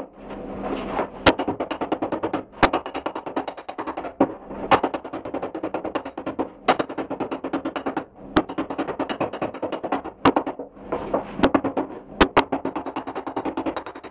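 Body hammer tapping out sheet-metal car body panels in quick runs of light taps, several a second, broken by short pauses and a few harder single blows.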